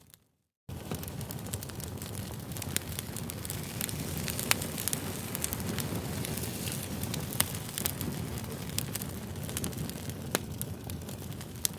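Wood campfire burning: a steady low rush of flame with constant crackling and sharp pops, a few of them louder snaps. The sound comes in abruptly after a brief silent gap at the very start.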